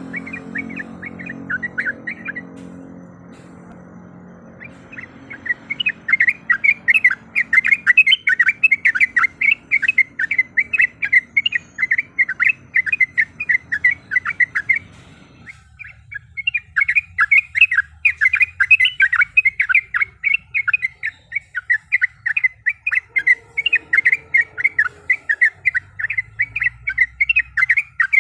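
Yellow-vented bulbul giving its challenge call: fast runs of short, bright chattering notes. They pause for about two seconds near the start and break off briefly about halfway through.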